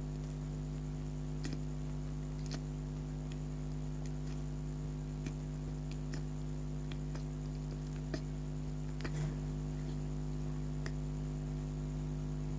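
Close-miked mouth sounds of someone eating soft donuts: scattered small wet clicks and smacks at irregular intervals over a steady low electrical hum.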